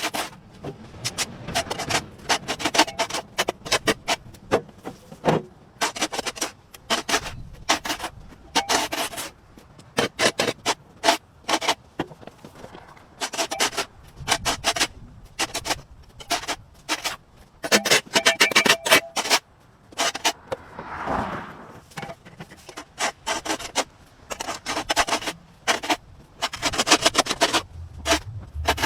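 Shovel blade scraping along a concrete sidewalk in runs of short strokes with brief pauses between them.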